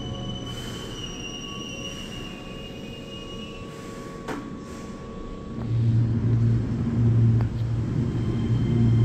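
Keihan 8000 series train rolling to a stop at an underground platform, its brakes giving a steady high squeal over a low rumble that fades out as the train halts. About halfway through, a Keihan 3000 series train comes in with a louder, steady low hum.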